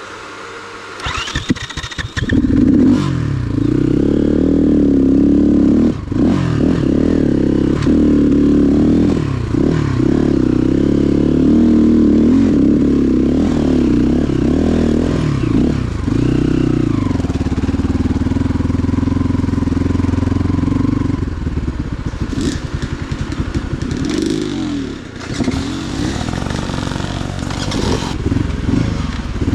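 Motorcycle engine catching about two seconds in, then running with the revs rising and falling, holding steady for a few seconds, and dropping to a weaker, uneven run near the end.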